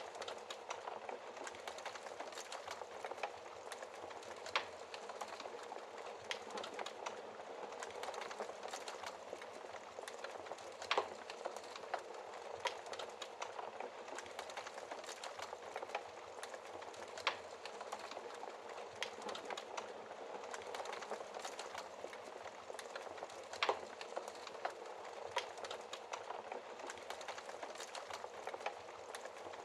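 Wood fire burning in a fireplace: a dense steady crackle with a sharp pop every few seconds.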